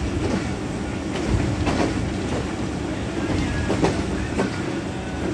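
Passenger train running over the tracks, heard from aboard: a steady rumble with irregular sharp clacks as the wheels cross rail joints.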